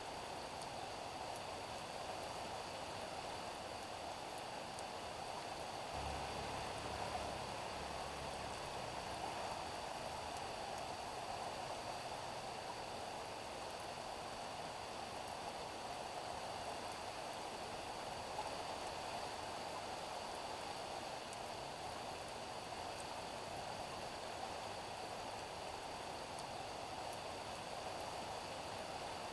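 Steady rain falling on a street, an even hiss with no breaks. A low rumble joins it about six seconds in and fades out after two or three seconds.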